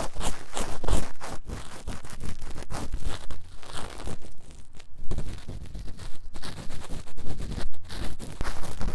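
Ear-cleaning scratching inside the silicone ear of a 3Dio binaural microphone: fast, rough strokes, several a second with brief pauses, heard close in the ear.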